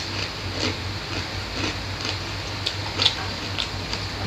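Chewing and soft, scattered mouth clicks of people eating rice with their hands, over a steady low hum.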